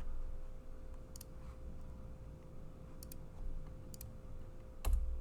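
A few short clicks of someone working a computer, roughly a second apart, the loudest near the end, over a faint steady electrical hum.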